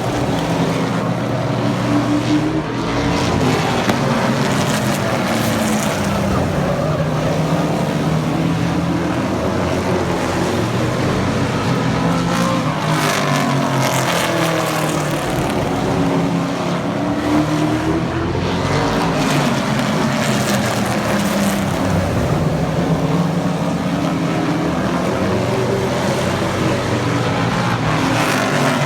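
Race truck engines running at speed around an oval track, their pitch rising and falling each time a pack passes, every few seconds.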